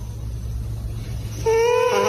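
A cat's long, drawn-out meow starting about a second and a half in, over a steady low rumble.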